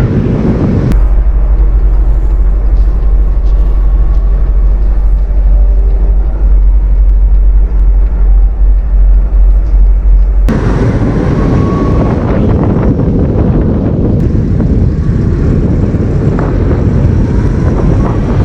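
Semi-truck driving on the road: steady engine and road rumble. About a second in, the sound turns to a muffled deep drone with little above it, and about ten seconds in it switches abruptly back to louder rumble with wind hiss.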